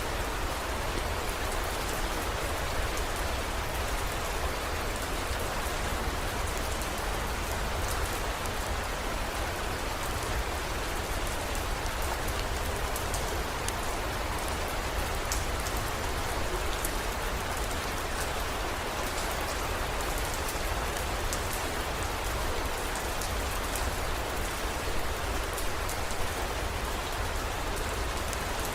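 Steady heavy rain falling, an even hiss with scattered sharp drop ticks on top and a low steady rumble underneath.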